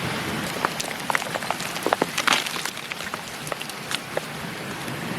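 Mountain stream rushing steadily, with a scatter of small sharp clicks and knocks from rocks being handled, busiest about two seconds in.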